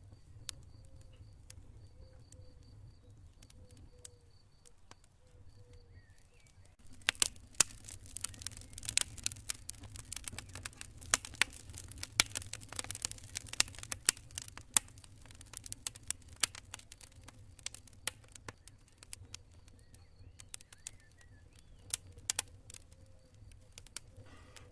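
Campfire crackling and popping: irregular sharp snaps, sparse at first and coming thick and fast from about seven seconds in, over a low steady rumble. A cricket chirps in a fast pulsing trill during the quieter first few seconds and again near the end.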